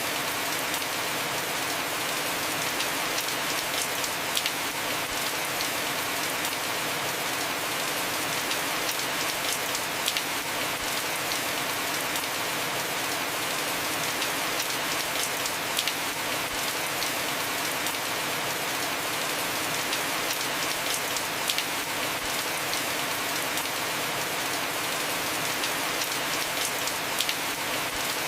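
Heavy rain falling steadily on a roof: a dense, even hiss with scattered sharper drop taps.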